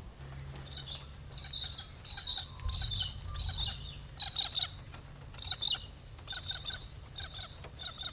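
Birds chirping: a string of short, quick, high-pitched calls repeated in clusters.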